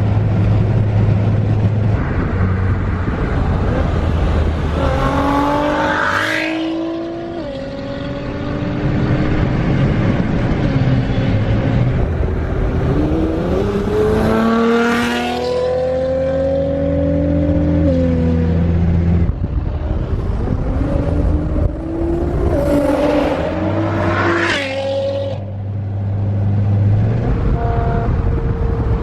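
Car engine under way with a steady low drone, pulling hard three times: each time the pitch climbs and steps back down as it shifts up through the gears.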